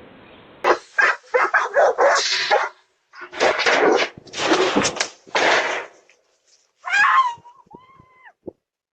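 A dog barking in bursts from about a second in, then a few short whines with rising and falling pitch near the end.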